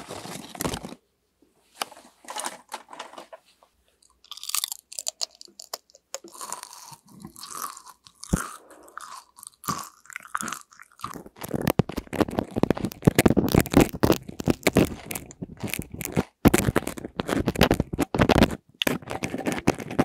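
Potato chips crunched and chewed right at the microphone, loud and close, in dense bursts through the second half. Before that, scattered crinkling from the chip bag and first bites.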